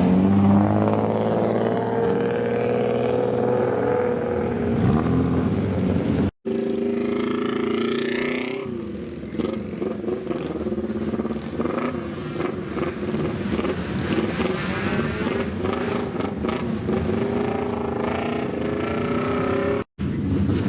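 Loud exhaust of custom kaido-racer old Japanese cars, engines idling and revving with pitch rising and falling. The sound breaks off abruptly twice, about six seconds in and near the end, as it cuts between clips.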